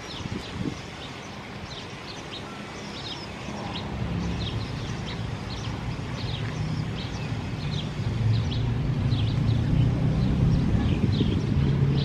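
Small birds chirping over and over, short high chirps several times a second. Under them a low engine hum swells from about four seconds in and becomes the loudest sound.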